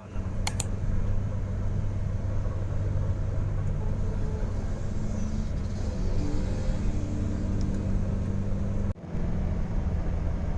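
Steady low drone of a road vehicle ride, as heard from inside, with a brief break about nine seconds in.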